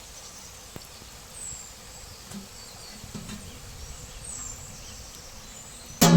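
Quiet outdoor background with faint insect buzzing and a couple of short, high, falling chirps. A loud sound cuts in just before the end.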